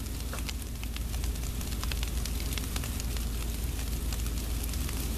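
Sleet falling: a steady crackling patter of many small ice pellets ticking on the ground and nearby surfaces, with a low rumble underneath.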